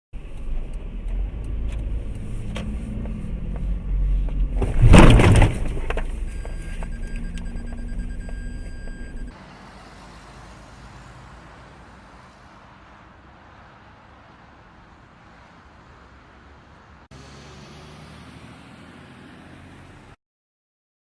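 Dash-cam audio of a car on the road: steady low engine and road rumble, with one loud sudden crash-like impact about five seconds in. After a sudden change just past nine seconds, only faint road noise and hiss remain.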